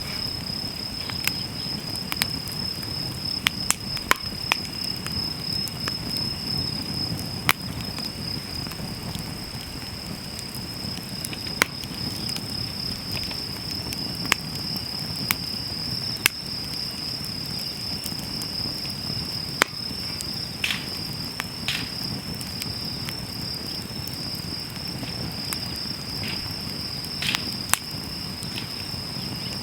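Wood fire crackling, with sharp pops every second or so over a low flutter of flames, and a steady high-pitched insect trill running underneath.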